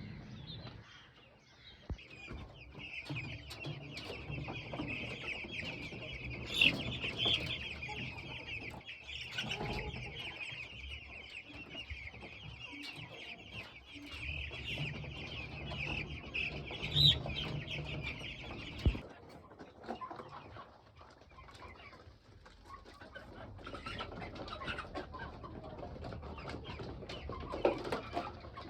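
A flock of young chickens about a month old peeping together in a dense, continuous chorus with occasional clucks. The chorus cuts off abruptly about two thirds of the way through, leaving quieter scattered calls.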